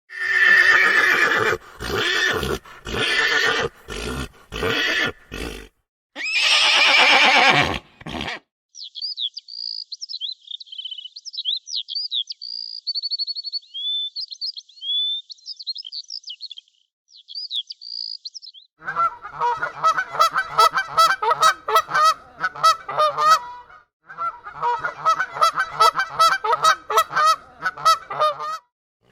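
A run of different animal calls: loud, rough calls in short bouts for the first eight seconds, then thin, high chirping, then a rapid pulsing call repeated many times in two long bouts.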